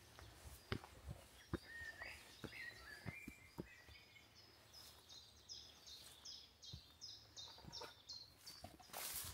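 Songbirds singing in woodland: a warbling phrase a couple of seconds in, then a run of about ten quick, high repeated notes. Soft footsteps tick at a walking pace during the first few seconds.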